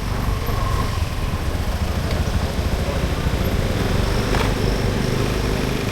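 Street traffic ambience: a steady low rumble of passing vehicles, with a couple of faint clicks about two and four seconds in.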